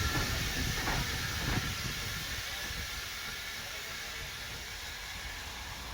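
Steam locomotive letting off steam: a loud, even hiss that slowly fades away.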